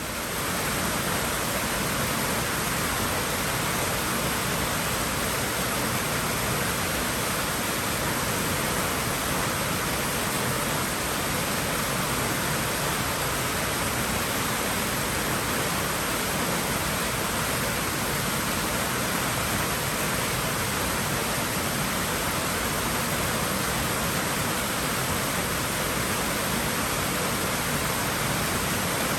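Pool water rushing steadily, an even hiss with no breaks, rising to full level within the first second.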